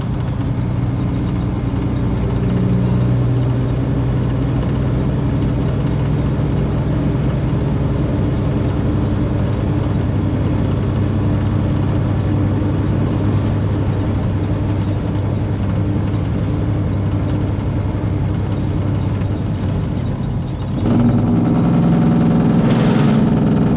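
Semi-truck engine running steadily, with a faint high whine that rises and later falls. About three seconds before the end a louder sound with more pitched lines comes in over it.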